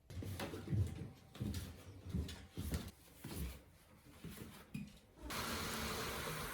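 Several dull thumps and knocks, then a steady hiss that starts about five seconds in.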